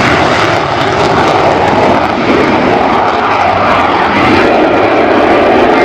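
English Electric Canberra bomber's twin Rolls-Royce Avon turbojets running loud and steady, a dense rushing jet noise that swells and eases slightly.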